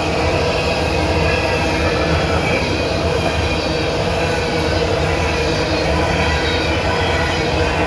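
Empty coal train rolling steadily past, its freight cars' steel wheels running on the rails with a continuous rumble and thin wheel squeal. The rails are noisy, which the railfan puts down to them having been ground.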